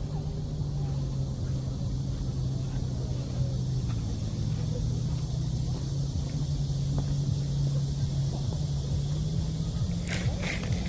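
A chorus of cicadas making a steady high hiss, over a louder steady low hum of motor noise. A few sharp clicks come near the end.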